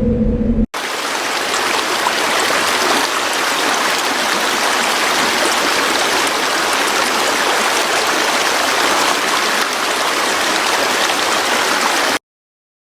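Flowing stream water rushing in a steady, even hiss. It starts abruptly just under a second in, after a brief low hum, and cuts off suddenly near the end.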